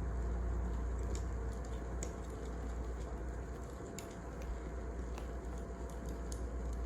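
Wood fire crackling: a steady low rumble with a sharp pop about once a second.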